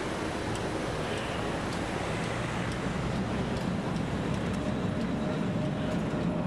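Vintage BOB narrow-gauge electric locomotive and coaches rolling past: a steady rumble of wheels on the rails with faint clicks. A thin steady whine comes in about four and a half seconds in.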